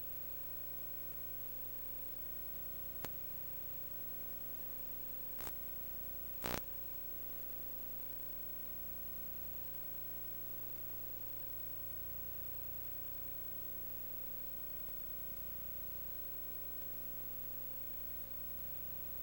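Faint steady electrical hum and hiss with a constant tone, broken by three short clicks in quick succession, the last the loudest.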